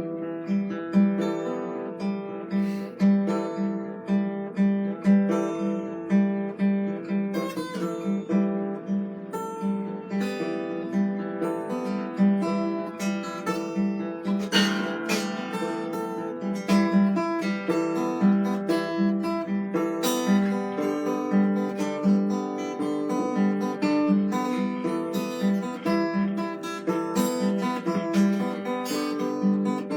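Acoustic guitar playing an instrumental passage, plucked notes over a repeating low note.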